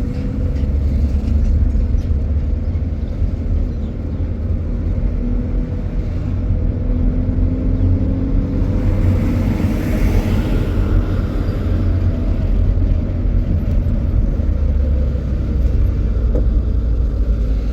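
Steady low rumble of a motor vehicle running, with a faint engine hum drifting slowly in pitch. A hiss swells and fades about ten seconds in.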